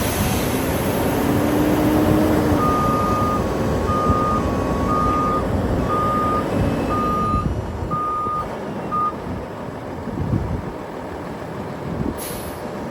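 Kenworth W900 mixer truck backing up: its reverse alarm beeps seven times, about once a second, over the running Cummins ISM diesel engine. A short air hiss comes near the end.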